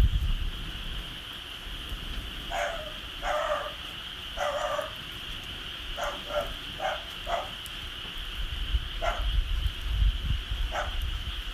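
A dog barking about nine times: three longer barks, then six shorter ones spaced irregularly. Under the barks runs a steady high-pitched drone and a low rumble.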